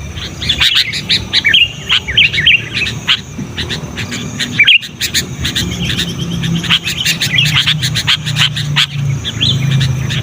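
Sooty-headed bulbul singing and chattering insistently: dense runs of short, rapid, bending chirps with hardly a pause.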